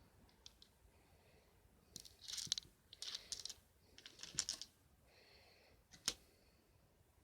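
Light handling noise: three short bursts of quick clicking and rattling, then one sharp click near the end.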